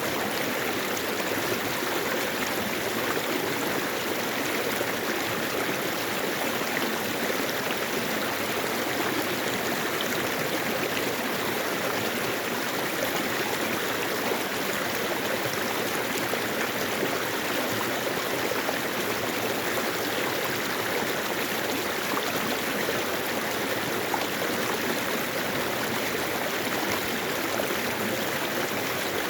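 Mountain valley stream flowing over rocks: a steady, even rush of running water.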